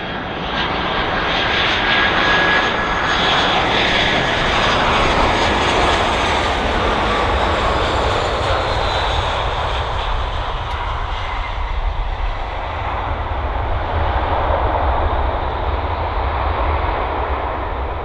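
Airbus A320-family jet airliner passing close by on landing, its turbofan engines rushing loudly. The sound swells about a second in and slowly fades, with a whine that falls in pitch as it goes by.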